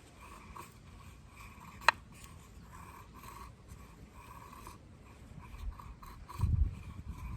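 A blade working wood in repeated short scraping strokes, about one a second, with a sharp click about two seconds in and a heavier thump near the end.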